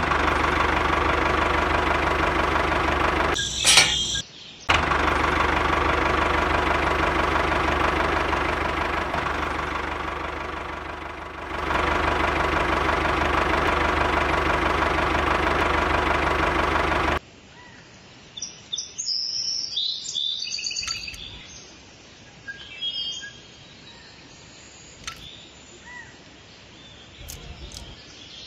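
Steady engine-like running sound of a miniature model tractor, an even hum with a brief sharp burst about four seconds in, cutting off abruptly after about seventeen seconds. Then birds chirp, and a few light clicks of thin wooden sticks being handled come near the end.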